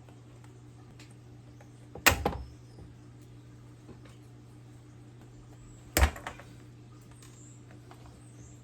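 Two sharp clicks about four seconds apart, each followed by a short rattle, over a steady low hum.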